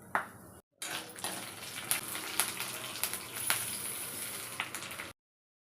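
Food crackling as it is stirred in the kitchen: a steady hiss with several sharp clicks of a spoon against the vessel, cutting off abruptly near the end.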